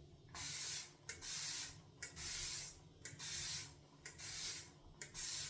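Water spray bottle misting water onto shaving soap: about six short hisses, roughly one a second. Water is being added to a thirsty soap base to build the lather.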